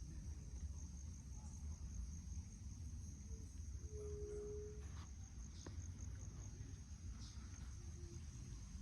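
Insects chirring steadily, a constant high-pitched trill, over a low rumble. A short, low, steady tone sounds about four seconds in.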